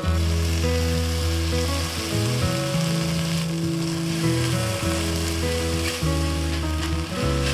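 Scrambled egg and tomato sizzling as they are stir-fried with a spatula in an enamel pot, over background music with held low notes.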